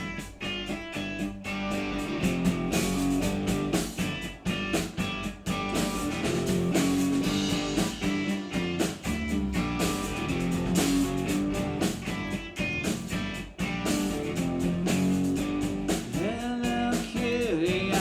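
Live rock band playing an instrumental passage: guitar chords over a steady drum beat.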